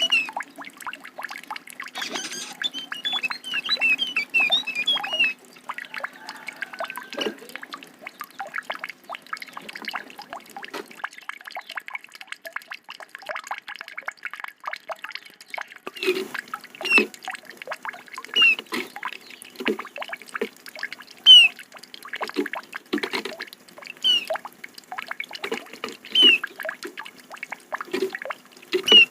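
Kecial (white-eye) songbirds calling: rapid chirping trills for the first few seconds, then, after a quieter stretch of small clicks, short high chirps about once a second among many clicks.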